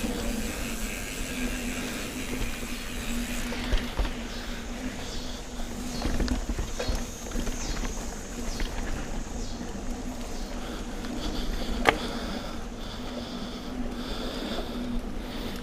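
Mountain bike rolling along a sandy, gravelly trail: tyre and drivetrain noise under a steady hum, with a couple of sharp knocks from bumps, the loudest about twelve seconds in.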